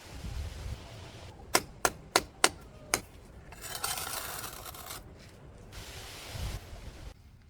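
Five sharp knocks in quick succession, about three a second, then a rasping scrape that comes twice.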